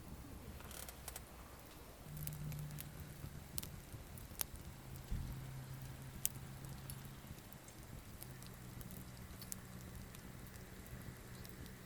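Campfire of gathered firewood crackling with sparse sharp pops and snaps. The fire is burning weakly.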